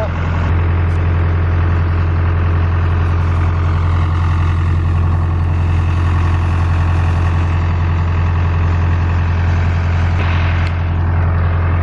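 A vehicle engine running steadily with a deep, even drone.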